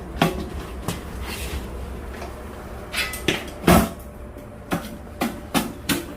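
Irregular knocks and clanks as a part is worked into a homemade steel stove body, some with a short metallic ring; the loudest clank comes a little past halfway.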